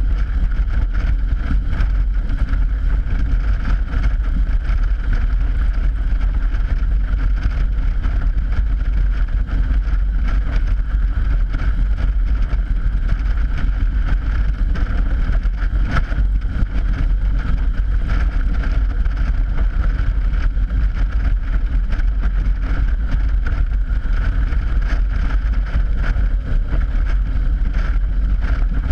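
Motorcycle crossing open steel grate bridge decking: its tires make a steady hum on the grates while wind buffets the camera's microphone.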